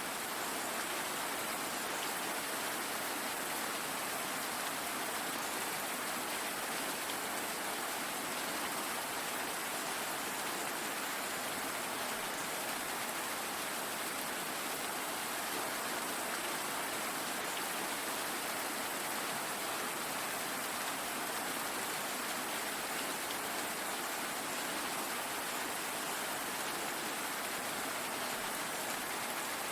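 Steady rainfall, an even hiss of rain on a surface with no change in level.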